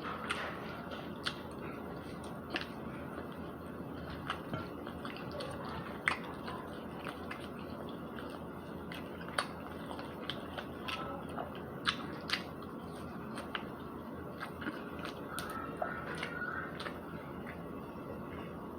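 A person chewing and biting spicy chicken McNuggets close to the microphone: irregular small wet clicks and smacks of the mouth, about one a second, over a steady background hiss.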